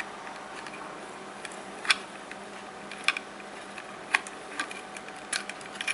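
Scattered light clicks and taps of small plastic parts being handled: the motor wire plugs of an RC model being pulled from their connectors. The clearest clicks come about two, three, four and five seconds in, over a steady low hiss.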